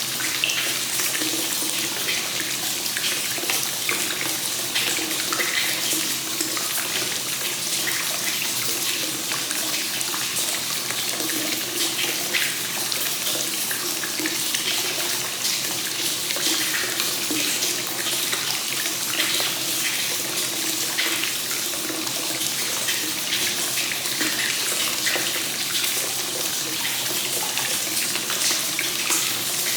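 Hot spring water pouring steadily from the spout into a semi-open-air bath, a continuous splashing hiss with a faint low gurgle under it.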